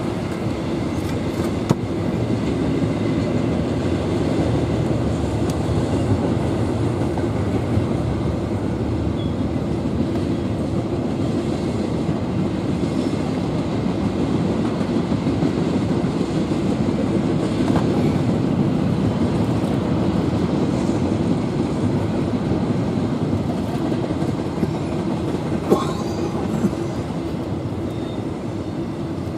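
Double-stack intermodal freight cars rolling past on the rails: a steady rumble and rattle of wheels and couplings, with a few brief sharp clacks, the loudest near the end.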